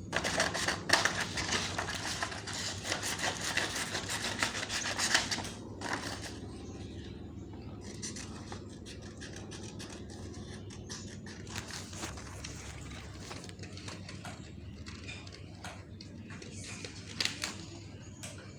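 Rapid, dense scratching and scraping of a tool worked over cardboard, as in colouring it or cutting it. It is loudest over the first five seconds or so, then goes on more faintly with a few sharper strokes near the end.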